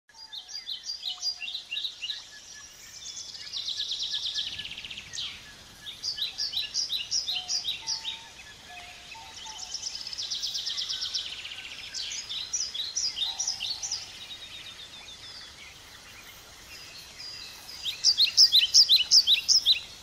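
Several birds singing: groups of quick, repeated high chirps and fast trills, with a few lower whistled notes, over a soft background hiss. The chirping is loudest near the end.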